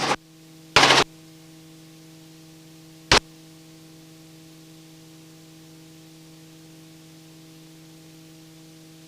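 Steady electrical-sounding hum with hiss on a helicopter cabin's recorded intercom audio, a few fixed tones held without change. A short loud burst of noise comes about a second in, and a single sharp click about three seconds in.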